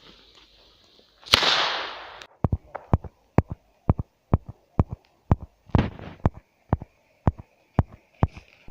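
A loud hissing burst lasting about a second, then a long run of sharp knocks, about two or three a second, unexplained knocking of unknown source.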